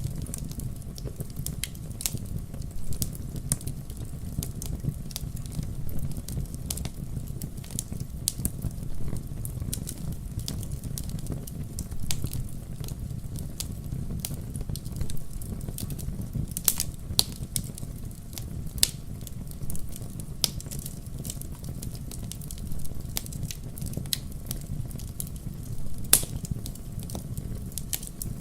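Wood fire burning in a fireplace: a steady low rumble of flames with irregular sharp crackles and pops, a few louder snaps about 17 and 26 seconds in.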